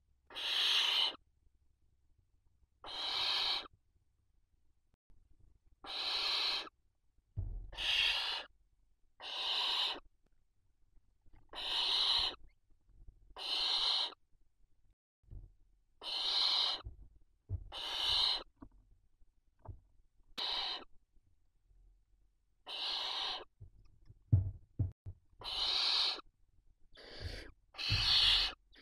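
Barn owl chicks giving their hissing, snore-like begging calls: a long series of harsh hisses, each under a second, about one every one to two seconds. A few low thumps come about two-thirds of the way in.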